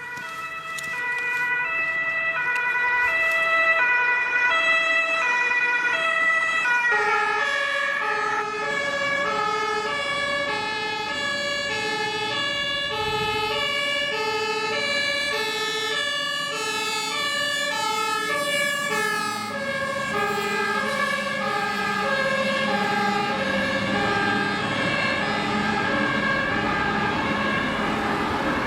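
German fire engines' two-tone sirens (Martinshorn), the two notes alternating in a steady rhythm. About seven seconds in, a second vehicle's two-tone siren joins, sounding out of step with the first. Engine and road noise grow louder near the end.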